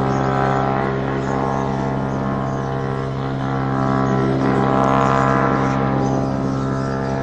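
Hovering police helicopter giving off a steady, unusual droning hum with many overtones, swelling a little about five seconds in.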